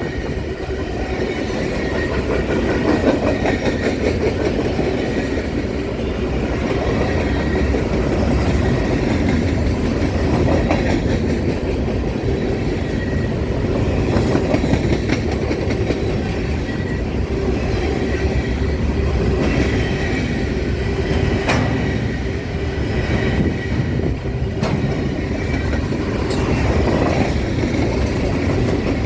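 A train rolling steadily past at close range, its wheels rumbling on the rails without a break, with a few sharp clicks as they cross rail joints.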